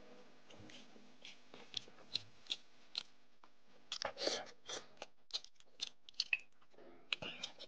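Mouth sounds of a person eating lamb leg: scattered wet smacks and clicks, then denser biting and chewing from about four seconds in as meat is bitten off the bone.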